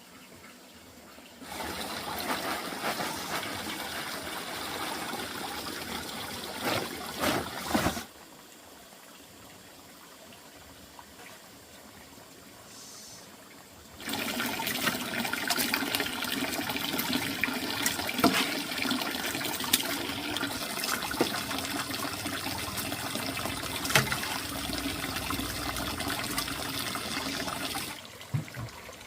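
Water running or pouring in two spells: a short one starting a little over a second in, then a longer one that starts about halfway through and stops shortly before the end.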